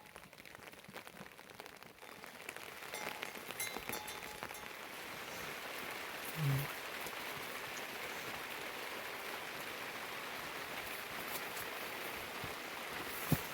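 Steady rain falling, building up over the first few seconds and then holding even. A brief low sound comes about six seconds in, and a sharp knock near the end.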